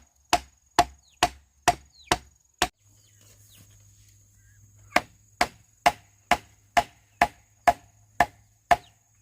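Blade chopping into bamboo in a steady run of hard strokes, about two a second, each with a short hollow ring; the strokes stop for about two seconds in the middle, then start again.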